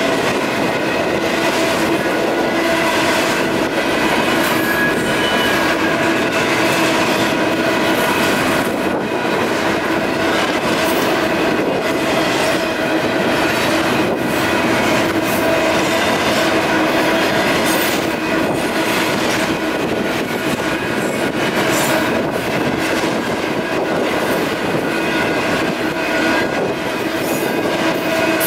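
Union Pacific double-stack intermodal freight train passing over a grade crossing: a steady rumble and clatter of wagon wheels on the rails, with the crossing's electronic warning bell ringing.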